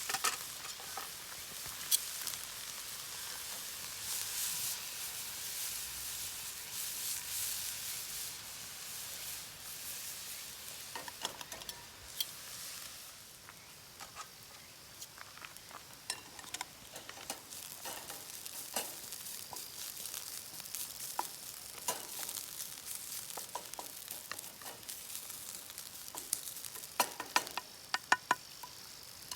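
Food sizzling in a frying pan over a campfire, loudest for the first dozen seconds and then quieter, with scattered sharp clicks and taps and a quick run of them near the end.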